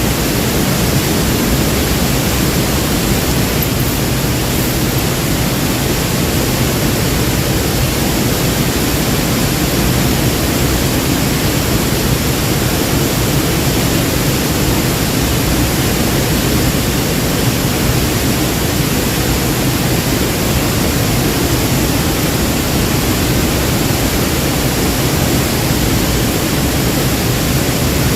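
Waterfall, water falling and rushing in a loud, steady, unbroken noise.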